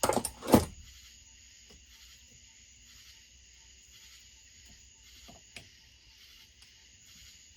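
Two sharp knocks right at the start, the second and louder one about half a second in, from work on a stuck part of the chainsaw. Then a steady, faint high-pitched chirring of insects, crickets by the sound of it, goes on under small regular ticks.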